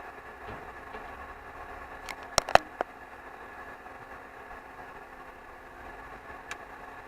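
Car engine idling, heard from inside the cabin, with a quick cluster of three or four sharp knocks about two and a half seconds in and one fainter click near the end.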